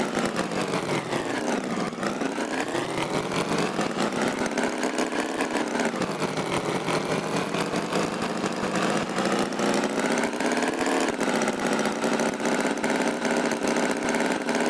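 Tractor engine running, its pitch dipping and rising back a few times as it slows and speeds up.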